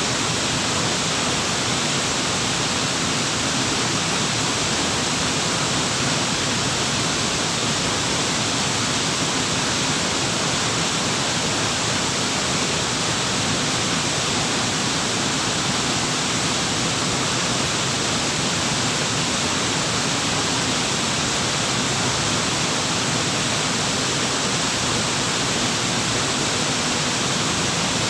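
Waterfall: falling water rushing in a steady, unbroken noise with no change in level.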